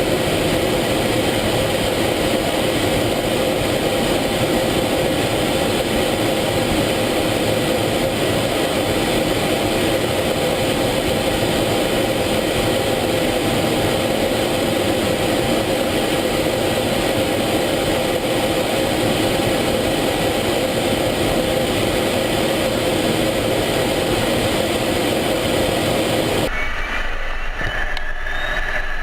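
Steady jet engine and air noise heard inside an F-16 cockpit, with a constant hum running through it. About three seconds before the end the sound changes abruptly: the high hiss drops away and a faint rising whine comes in.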